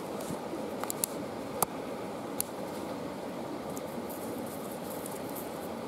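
Campfire burning, with a steady hiss and a few sharp pops and crackles in the first couple of seconds.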